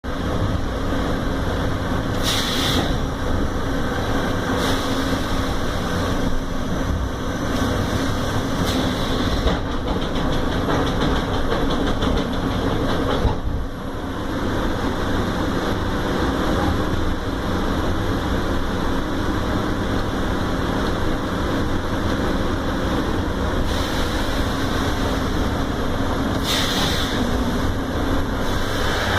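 Sawmill chop saw and its machinery running steadily, a loud mechanical rumble and clatter, with a few short higher-pitched stretches near the start, about nine seconds in and near the end.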